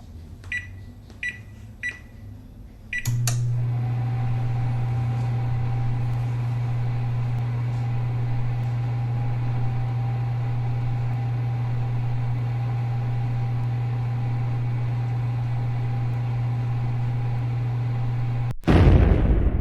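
Microwave oven sound effect: four short keypad beeps, a click as it starts, then a steady running hum for about fifteen seconds. The hum cuts off suddenly near the end and a loud bang follows.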